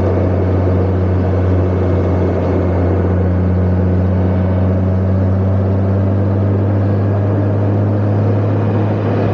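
Honda Gold Wing motorcycle engine running at a steady cruise, a constant low hum with even wind and road noise over it.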